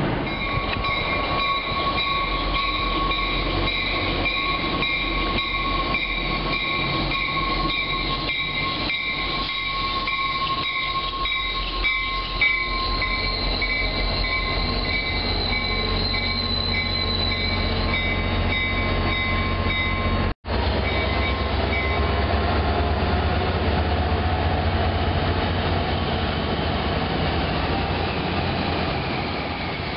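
MBTA commuter rail train, diesel locomotive and coaches, rolling past through the station. A steady high-pitched whine of several tones runs for about the first two-thirds, over regular clicking of wheels on the rails. A deep engine rumble builds from about halfway. The sound drops out for an instant about two-thirds of the way through.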